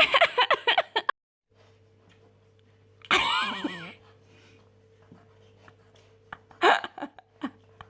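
A puppy's brief whine, its pitch bending up and down, about three seconds in, with a shorter whimper near the end. A faint steady hum runs underneath.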